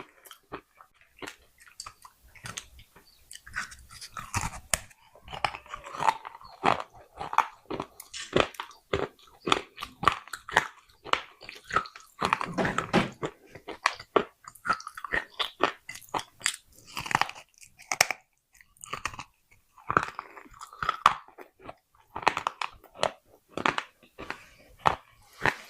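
Close-up crunching and chewing of pieces of baked clay pot: many sharp, irregular crunches as the clay is bitten and ground between the teeth.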